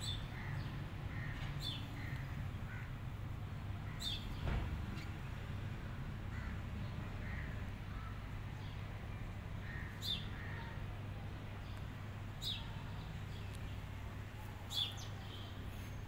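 Birds calling: a few sharp, short calls spread through, with fainter chirps in between, over a steady low rumble.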